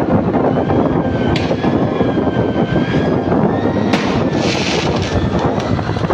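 Loud, dense street and engine noise from a motorbike on the move, broken by sharp pops of handheld fireworks being fired, about a second in and about four seconds in, the second followed by a brief hiss.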